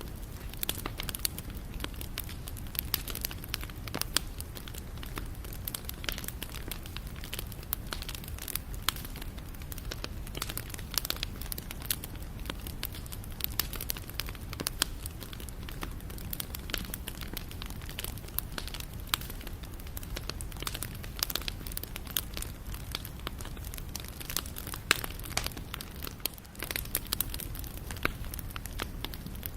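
Wood fire burning, crackling with irregular sharp snaps and pops over a low steady rumble of the flames.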